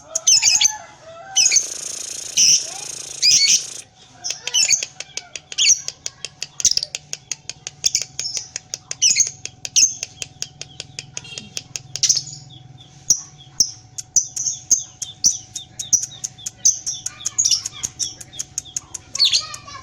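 Young lovebird ngekek-ing: a long, unbroken run of rapid, high, shrill chattering chirps. A burst of rustling noise comes about one and a half to four seconds in.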